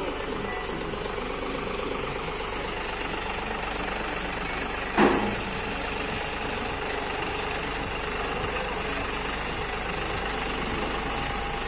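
A new John Deere 5210 GearPro tractor's diesel engine running steadily, with one sharp clank about five seconds in.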